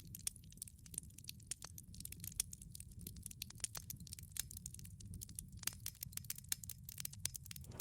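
Wood fire burning in a wood-fired pizza oven: irregular sharp crackles and pops over a steady low rumble of the flames.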